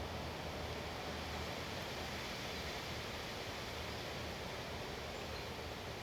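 Wind blowing steadily, a constant rushing noise with a low rumble underneath.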